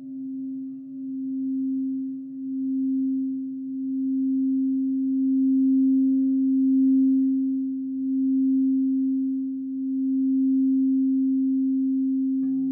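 Crystal singing bowl sounding one steady, pure tone that swells and fades in slow waves. Near the end a second, lower bowl comes in under it.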